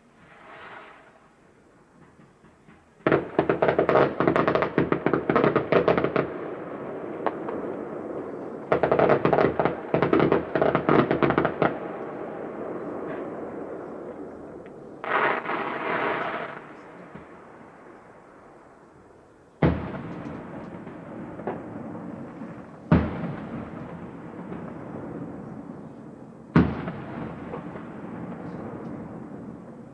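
Fireworks display: two dense volleys of rapid crackling bursts, then a shorter crackle. After that come three single loud shell bursts a few seconds apart, each trailing off in a long rumble.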